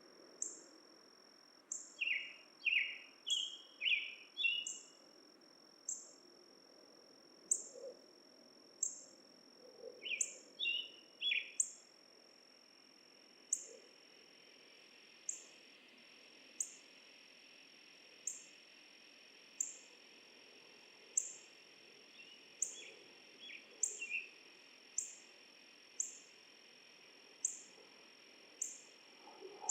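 Forest dusk ambience: a bird sings short bursts of song in three bouts, over a steady high-pitched whine and a short high chirp that repeats about every one and a half seconds.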